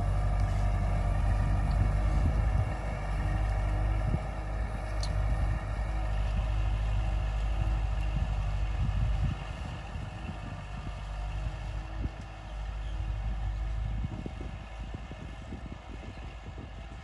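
Kubota L5018SP tractor's diesel engine running steadily, getting quieter about nine seconds in and again near fourteen seconds.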